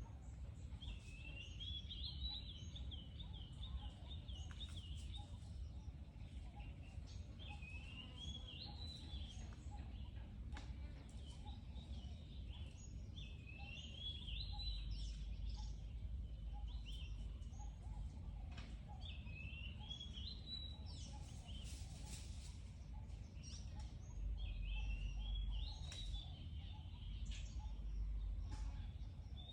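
A songbird singing short warbling phrases about every five or six seconds, over a steady low outdoor rumble.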